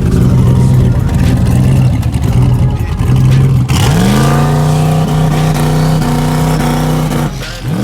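Loud muscle-car engine sound in two edited clips: first a rough, low rumble; then, after an abrupt cut, an engine revs up and holds a steady higher note for about three seconds before cutting off.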